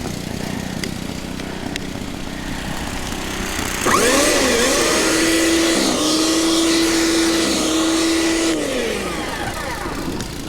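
A gasoline engine runs at a low steady hum, then about four seconds in revs up sharply, with a loud hiss over it. It holds a high, steady pitch for about four and a half seconds, then winds down.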